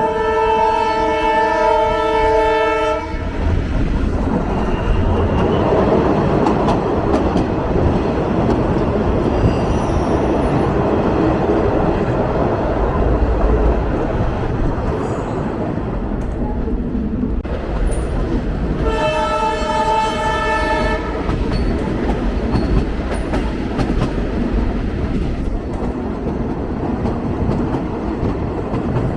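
Train horn sounding a chord and cutting off about three seconds in, then the steady rumble and rail clatter of the moving train, with the horn sounding again for about two seconds past the middle.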